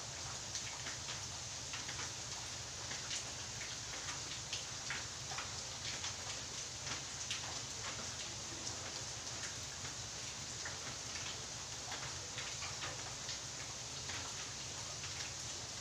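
Rain falling steadily, with a continuous hiss and many irregular drops tapping close by.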